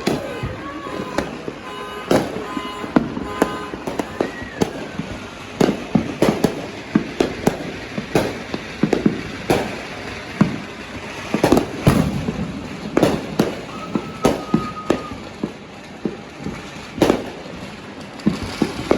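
Fireworks and firecrackers going off in an irregular run of sharp bangs, often several a second, with a few short whistling tones among them.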